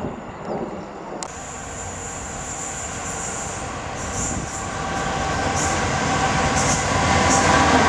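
Freightliner Class 66 diesel locomotive, its two-stroke V12 engine running, approaching at speed at the head of an intermodal container train. Engine and wheel noise grow steadily louder as it nears.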